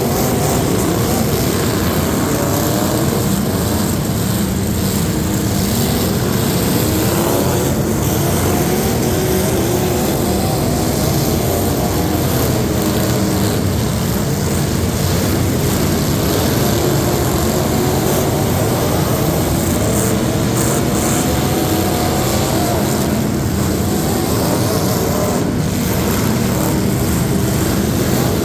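Competition truck engines running hard and loud, their pitch rising and falling as the throttle is worked.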